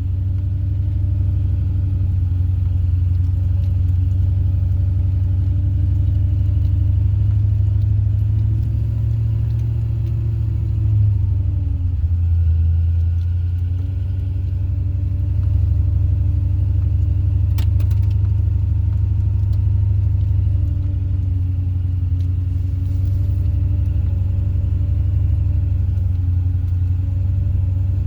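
An engine running steadily, with a low drone whose pitch slowly rises and falls, and a single sharp click about eighteen seconds in.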